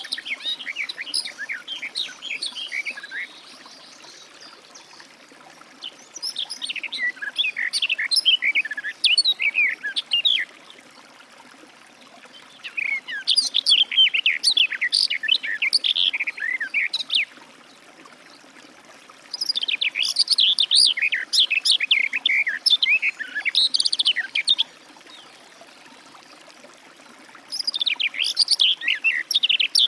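Garden warbler singing: five long, rapid, rich warbling phrases of several seconds each, separated by pauses of about two to three seconds.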